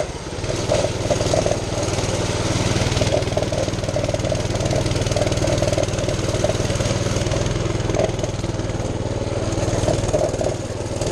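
Mini bike's small engine, its governor removed, running steadily under throttle as the bike is ridden, with a fairly even pitch throughout.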